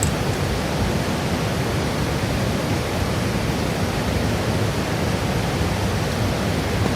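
A steady rushing noise at an even level, with no distinct events.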